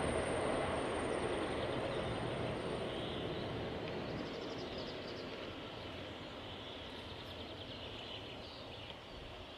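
Rumble of a train going away down the line, fading steadily into the background.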